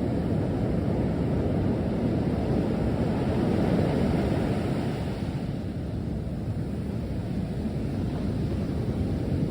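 Heavy storm surf on a beach, a continuous low rumble of breaking waves that swells about three to four seconds in and eases after.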